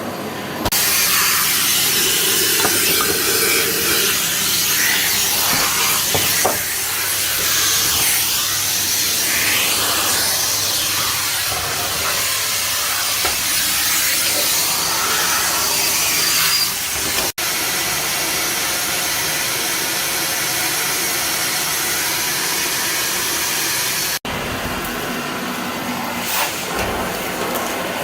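AEG Clean 6000 ÖKO canister vacuum cleaner running: a loud, steady rush of suction whose texture shifts as it works, breaking off for an instant twice in the second half.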